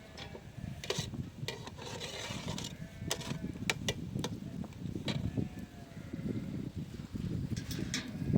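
A series of sharp clicks and knocks, with some rubbing, as hard objects are handled, over a low rumbling background.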